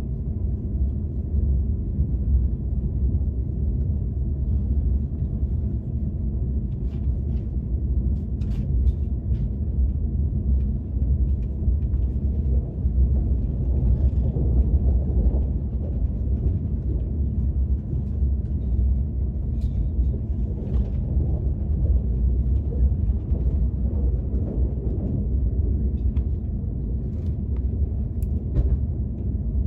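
Steady low rumble of a KTX high-speed train running, heard from inside the passenger car, with a few faint clicks scattered through it.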